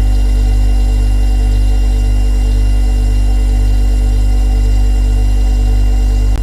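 Refrigerator compressor running: a loud, steady low hum with several fainter steady tones above it, and a brief tick near the end.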